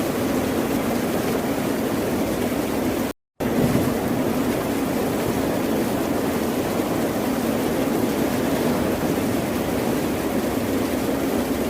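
Steady ocean surf noise that runs on without distinct wave swells. It cuts out to silence for a split second about three seconds in, then resumes.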